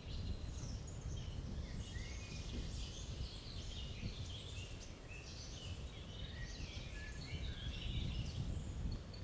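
Small birds chirping and twittering in many short, scattered calls, over a steady low background rumble.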